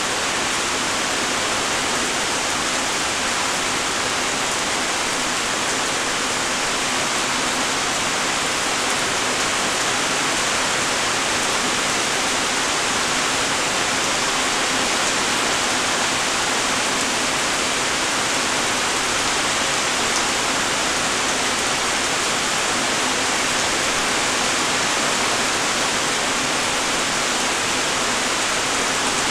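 Steady light rain falling, an even hiss of raindrops with no distinct drips or changes.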